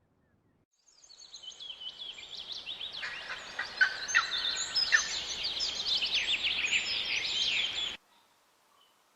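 Many birds chirping at once in a dense chorus of short, high overlapping calls, building up from about a second in and cutting off abruptly near the end.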